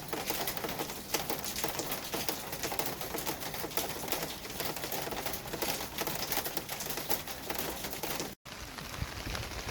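City street ambience: a dense, crackling patter of many small clicks. It cuts out abruptly for a moment about eight seconds in, and a low rumble comes in afterwards.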